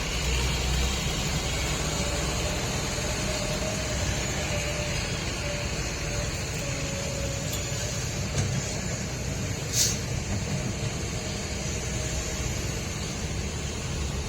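Heavy truck engine running steadily with a low rumble, and a single sharp click about ten seconds in.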